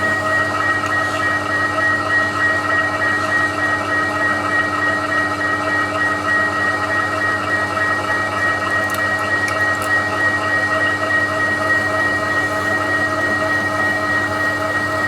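TOS milling machine running steadily, a constant mechanical whine with a low hum beneath it, at a steady level throughout.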